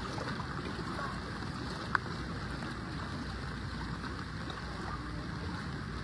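Steady rush and slosh of floodwater, with a single brief sharp tick about two seconds in.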